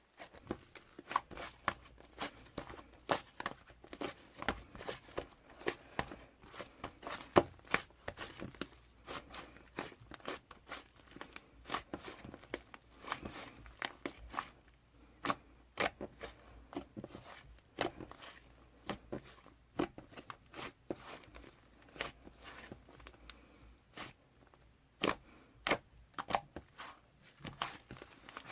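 Irregular crinkling and crackling: many small sharp clicks, several a second, from something being handled close up in a small room.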